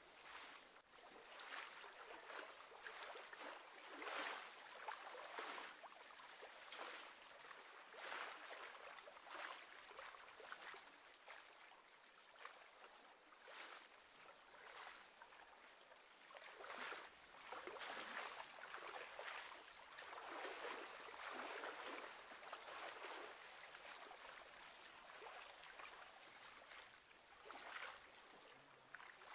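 Faint small waves lapping and splashing at the lake's edge, swelling and fading irregularly.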